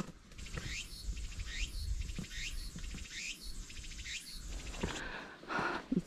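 A bird calling over and over: a short sweeping note repeated about once a second, with a low rumble underneath.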